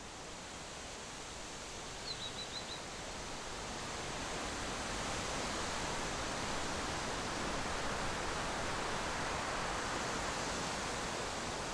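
Steady rushing noise that grows louder over the first few seconds and then holds, with a brief run of four short high chirps about two seconds in.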